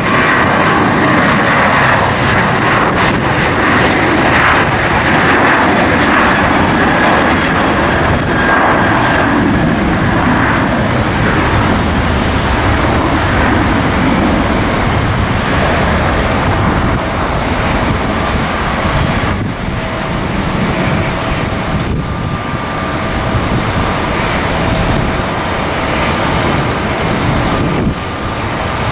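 Airliner's engines running loud and steady with a thin whine over the rumble, easing slightly about halfway through, with wind buffeting the microphone.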